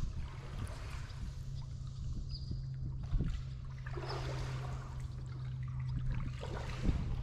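Kayak paddling: water splashing and trickling off the paddle blades in strokes, over a steady low hum.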